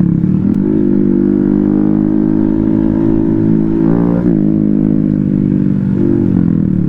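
Small off-road vehicle engine running under steady throttle on a trail ride, its pitch briefly dipping and changing about four seconds in, then easing off near the end.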